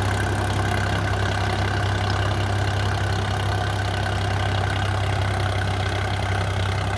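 Preet 955 tractor's diesel engine running at a steady speed, with a constant low hum.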